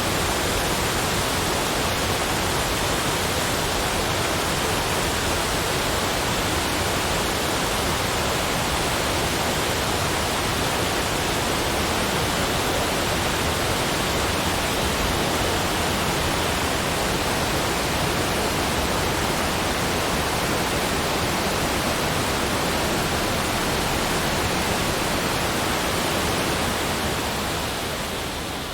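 Steady, even rush of flowing water, like a waterfall, with no individual events; it dips slightly near the end.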